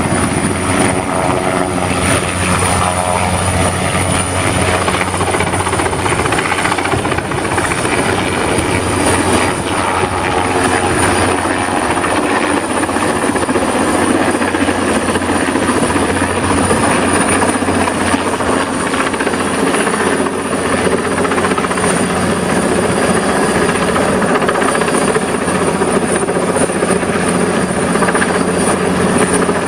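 Commercial HVAC unit running steadily: fan noise over a low hum, with a thin high whine held throughout.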